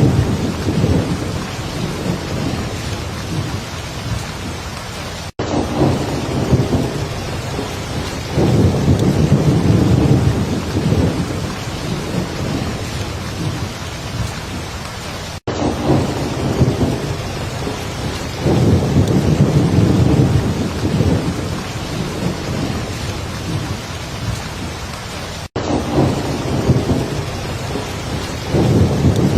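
Heavy rain falling steadily, with thunder rumbling low again and again in swells of a few seconds. The sound cuts out for an instant three times, about every ten seconds.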